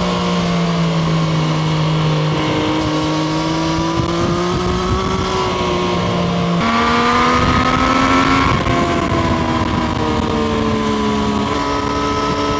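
Triumph Street Triple RS's 765 cc inline-three engine running under way at steady moderate revs. Its pitch jumps up suddenly about halfway through and eases back down in steps toward the end.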